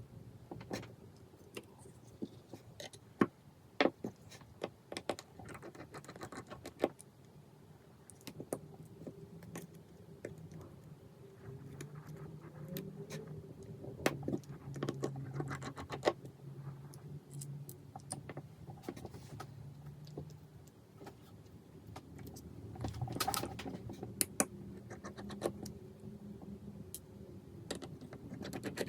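Small, scattered metallic clicks and taps of precision tools on the parts of an iPhone 5s being taken apart, as a screw is worked out from under a plastic cover. A faint low hum runs through much of the second half.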